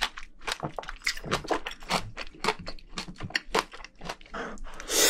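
A person chewing a mouthful of spicy braised seafood close to a microphone: rapid, irregular wet crunches and mouth clicks, with a short, louder rush of noise at the very end.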